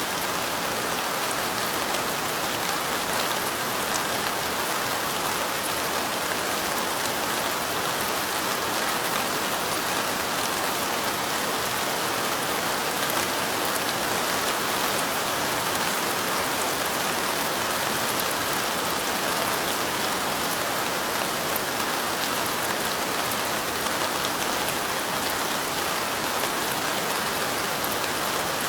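Steady light rain falling, an even hiss sprinkled with fine drop ticks, unchanging throughout.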